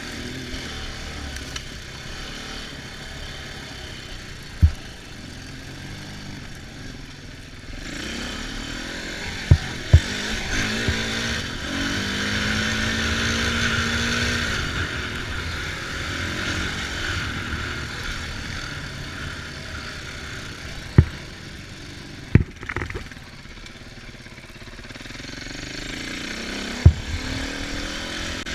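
Small off-road engines running and revving while riding, with engine pitch rising through a run of acceleration about a third of the way in. Several sharp knocks stand out above the engine noise.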